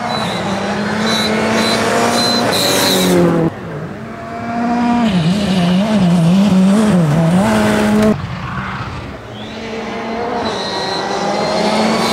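Rally car engines at full throttle, revving up and down, with the sound cutting abruptly from one car to another about 3.5 seconds and 8 seconds in. In the middle stretch the engine note rises and falls quickly several times.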